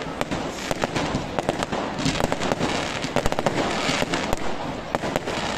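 Aerial fireworks going off: many sharp bangs and crackles in quick succession, thickest in the middle, over a continuous crackling hiss.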